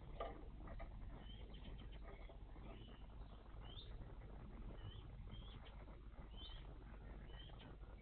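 Faint short high chirps from small songbirds, about a dozen scattered through, with a few light clicks near the start.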